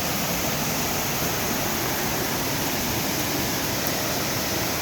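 Rushing water of a river at a series of waterfalls: a steady, even roar of flowing water.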